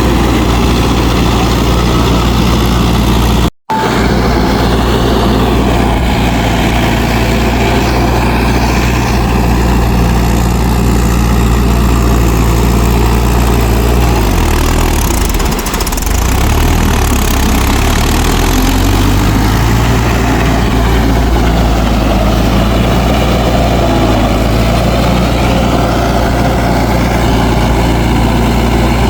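Mahindra 4WD DI tractor's diesel engine running steadily, its note dipping in pitch and coming back up around the middle. The sound cuts out completely for a split second about three and a half seconds in.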